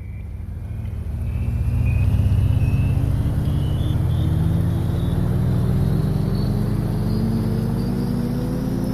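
A vehicle's motor running and gathering speed, a heavy low rumble under a whine that rises steadily in pitch.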